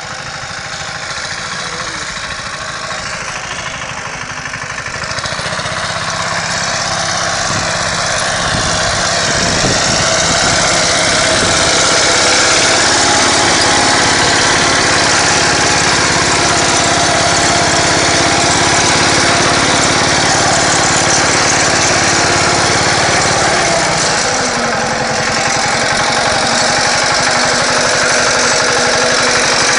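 Engine of a two-wheel walk-behind tractor running steadily. It grows louder over the first ten seconds or so, then holds steady, easing off briefly about 24 seconds in.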